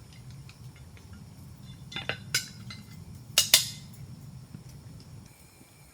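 Cooking utensils and cookware clinking and knocking: a few light knocks about two seconds in, then two louder sharp clinks in quick succession.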